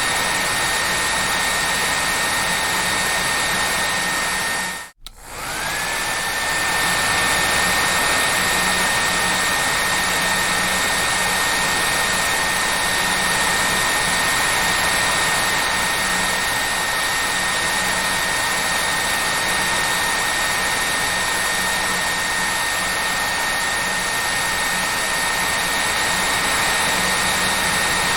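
Hair dryer blowing steadily, a rushing noise with a motor whine over it. About five seconds in it cuts out for an instant, and the whine climbs back up to pitch as the motor spins up again.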